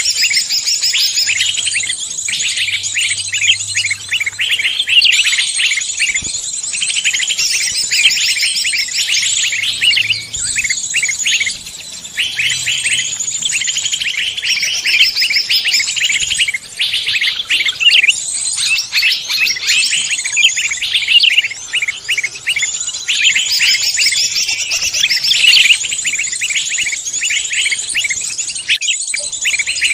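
Many songbirds chirping and singing at once, a dense, unbroken mix of high-pitched calls and trills.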